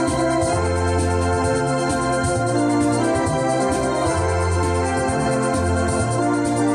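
Electronic organ playing: held chords with a melody on top, over a bass line whose notes change about once a second.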